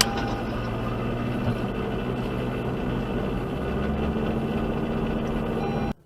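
Steady vehicle engine and road noise with a low hum, cutting off abruptly near the end.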